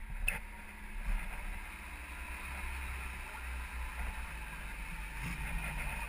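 Steady low rumble of an idling engine, with rustling and small knocks as work gloves are pulled on and a sharp click just after the start.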